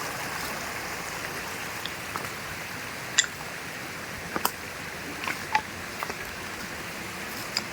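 Steady rushing of a flowing forest river, with a few short sharp clicks over it from about three seconds in.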